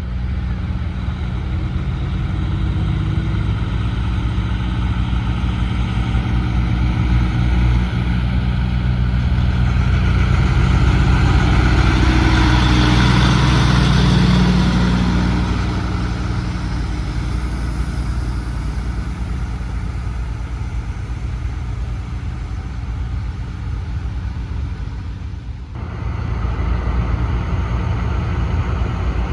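Heavy truck's diesel engine running as it passes, growing louder to a peak in the middle and then fading. The sound changes abruptly a few seconds before the end.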